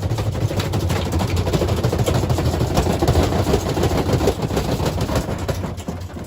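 Washing machine spinning with bricks loose in the drum: rapid, continuous hard banging and rattling over the steady drone of the drum and motor. It stops abruptly at the very end.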